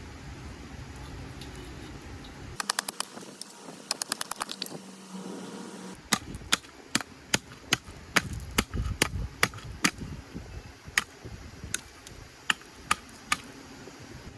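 A run of sharp clicking taps: a quick cluster of about a dozen, a short pause, then taps at roughly two a second that thin out near the end.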